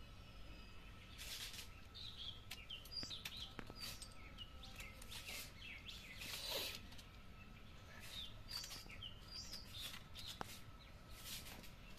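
Small birds chirping repeatedly, with scattered faint clicks and crackles and a short rush of noise a little past halfway.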